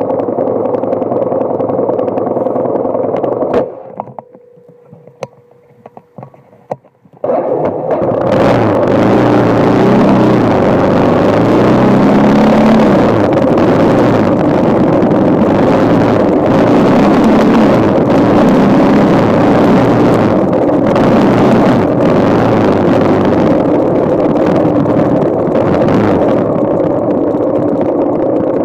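Yamaha XT motorcycle engine running as it is ridden. Its pitch rises and falls as it revs. A few seconds in, the sound drops almost away for about three seconds, then comes back loud with a steady hiss over it.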